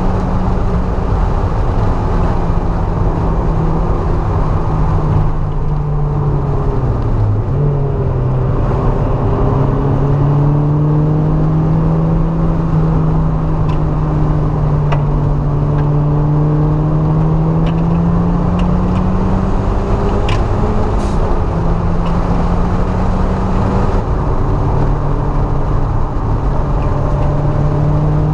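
Mazda MX-5's four-cylinder engine heard from inside the cabin while lapping a race track, over heavy road and wind noise. The revs hold steady, dip sharply and climb again about seven seconds in, and dip briefly about twenty seconds in.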